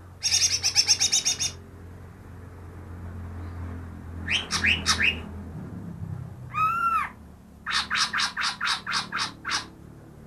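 Cucak ijo (green leafbird) singing in varied, separate phrases: a fast trill, a few quick rising notes, a single arched whistle, then a run of about ten rapid repeated notes. The changing phrases are typical of this mimic copying other birds' calls.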